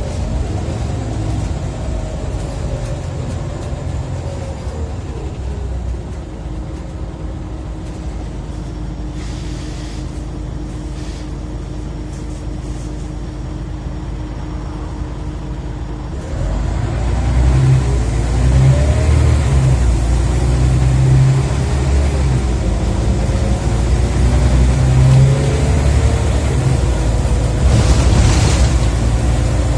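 Scania OmniCity bus heard from on board: the engine slows and settles to a steady low idle, then about halfway through pulls away hard and gets louder, its pitch climbing and dropping back several times as the ZF automatic gearbox changes up. A short hiss near the end.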